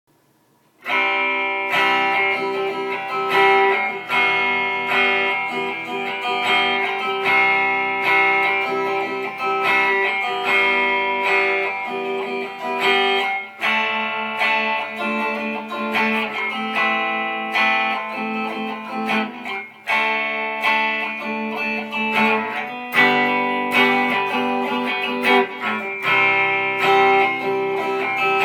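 Guitar playing a song, notes and chords plucked and strummed, starting about a second in.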